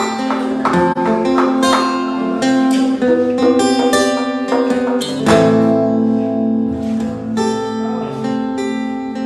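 Acoustic guitar playing the instrumental intro of a song, notes picked and strummed in a steady run.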